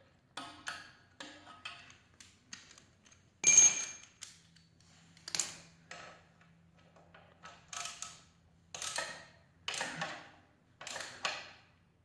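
A wrench working the motorcycle's exhaust mounting bolt tight: a run of short clicks, then a sharp metallic clink that rings about three and a half seconds in. After it come scraping and rubbing sounds about a second apart.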